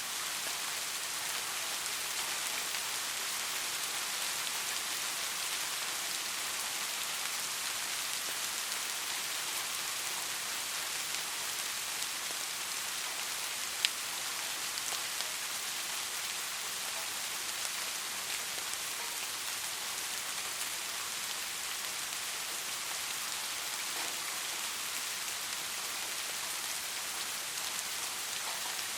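Soft rain falling steadily: an even hiss with scattered small drop taps, and one sharper drip about halfway through.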